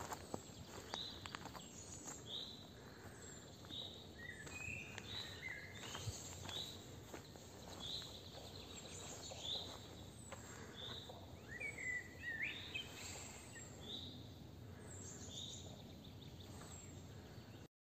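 Songbirds singing and calling in a park, with short high chirps repeating about once a second and a quick falling phrase about twelve seconds in, over a faint outdoor hiss. The sound cuts off abruptly just before the end.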